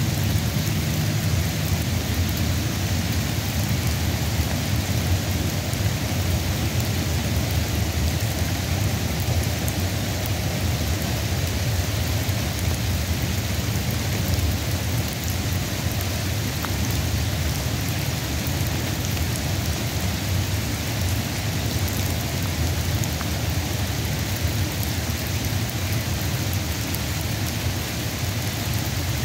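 Steady rain falling, an even hiss with a constant low rumble underneath and no separate events.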